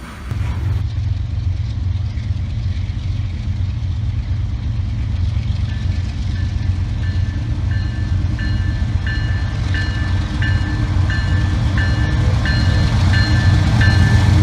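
Diesel train approaching, its locomotive engine rumbling louder and louder, with a bell ringing about one and a half strikes a second from about six seconds in.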